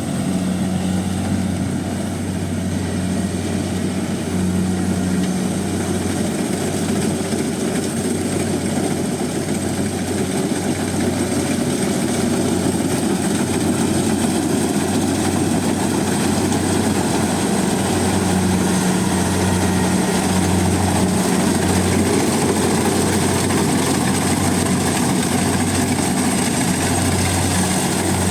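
Rice combine harvester running steadily, its diesel engine humming low with a thin steady whine over it.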